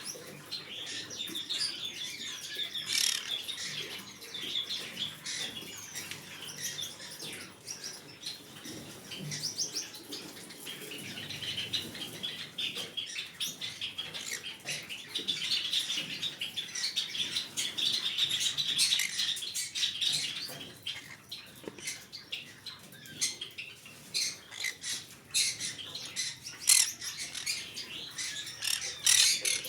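Green cheek conure chirping and chattering, a dense run of short, rapid high calls with sharp clicks mixed in.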